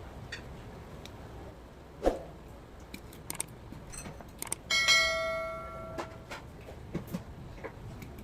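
A few light knocks and clicks, then one sharp strike that rings out with a clear metallic bell-like tone and fades over about a second and a half.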